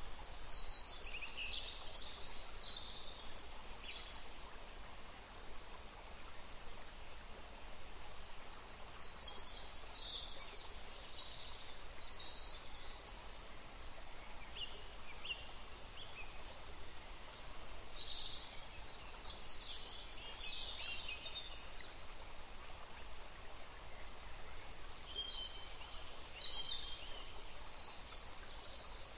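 Birds singing in four short phrases of high chirps, several seconds apart, over a steady even hiss.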